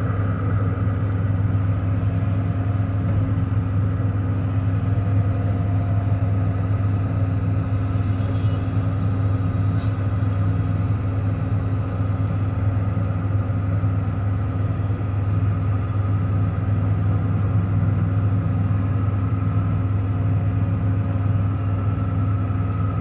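Diesel engine of a John Deere 245P excavator running at a steady idle, with an even low hum that does not change.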